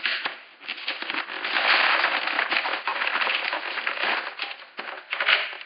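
Plastic toy packaging crinkling and crackling loudly as it is handled and pulled open, a dense run of quick crackles that eases off near the end.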